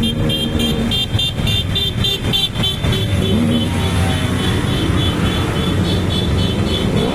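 Motorcycle engines running, their pitch rising and falling slightly, with a rapid high-pitched beeping over them, about four or five beeps a second, that turns into a steadier tone after about three seconds.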